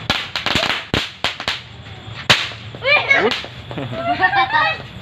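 Small chili-shaped firecrackers (mercon cabe) going off: a fast crackle of pops, then several separate sharp cracks, the loudest a little after two seconds in.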